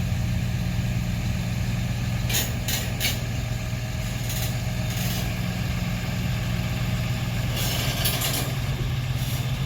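Diesel freight locomotive idling steadily on a train stopped by a hard brake application, with several short hisses over the low engine hum.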